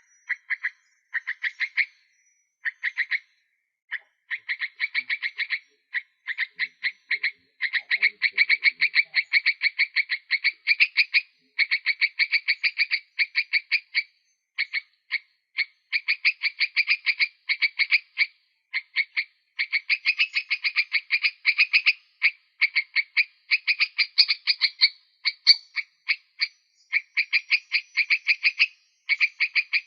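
Rapid trains of short, sharp animal calls, many a second, in bursts of one to a few seconds with brief pauses between them.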